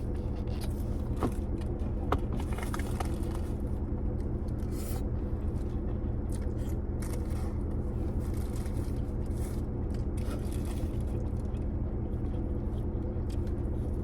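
Eating sounds: a utensil scraping and clicking against a takeout food container, with chewing, over a steady low hum.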